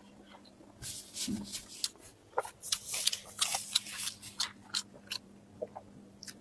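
Close-miked chewing and biting of food, a quick irregular run of moist clicks and crunches starting about a second in, over a faint steady hum.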